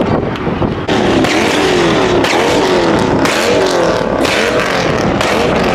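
A car doing a burnout: the engine is held at high revs, its pitch rising and falling as the revs bounce, over a loud rushing noise of spinning tyres.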